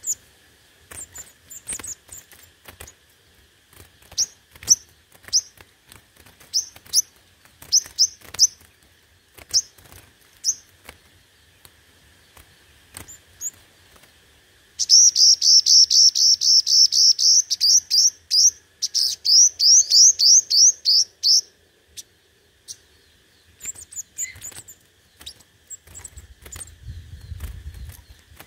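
Sunbird singing, a male's lure or contest song: scattered high, thin chirps, then about halfway through a loud, fast trill of rapidly repeated falling notes lasting about six seconds, broken once by a short pause, followed by more sparse chirps.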